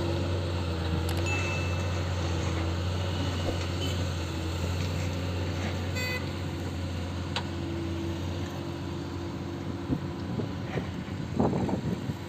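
Diesel engine of a construction machine running steadily with a low hum; about ten seconds in the low hum drops away, and a few short irregular sounds follow near the end.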